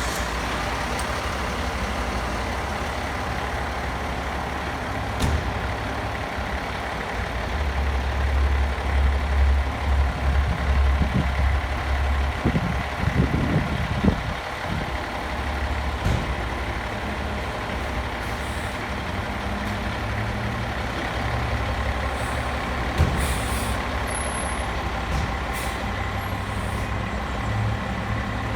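Fire engine's diesel engine running steadily, growing louder for several seconds about a third of the way through, with a few short clicks.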